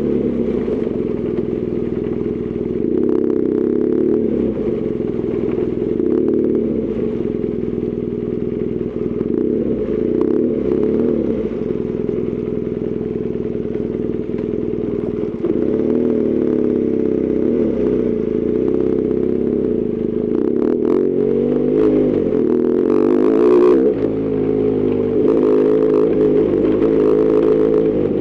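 BMW R1200GS Adventure's flat-twin engine running under way, its pitch rising and falling repeatedly as the throttle opens and closes, with occasional clicks and clatter.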